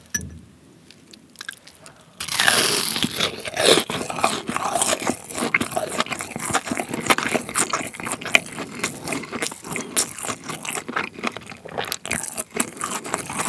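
A loud crunch as a bite is taken into a crisp breaded cheese pork cutlet about two seconds in, followed by steady crunchy chewing.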